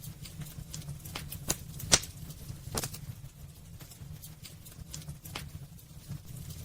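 Wood fire crackling in a fireplace: irregular sharp pops and snaps, the loudest about two seconds in, over a steady low rumble of the burning fire.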